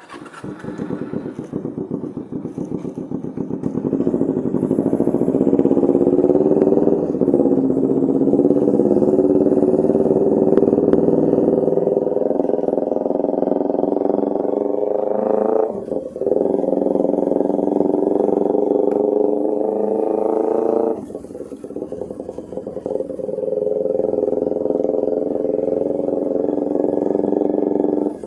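Kawasaki Ninja 250R's parallel-twin engine running loud through an Austin Racing aftermarket exhaust while being ridden. Its note climbs slowly as it pulls, with two short breaks in the second half where the rider changes gear.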